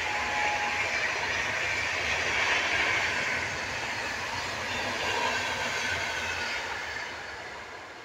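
Rajdhani Express passenger coaches running past at high speed: a steady rush of wheels on rails. It is loudest a couple of seconds in and fades near the end as the last coach goes by.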